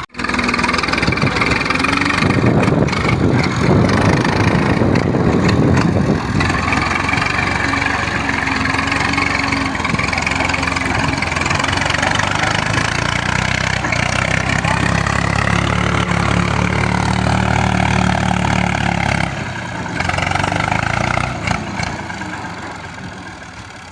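Tractor engine running loud, its pitch rising and falling as it is revved, then easing off near the end.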